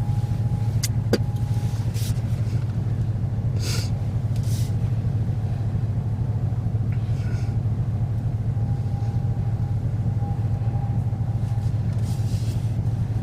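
Steady low rumble of a car heard from inside the cabin, with a couple of faint clicks about a second in.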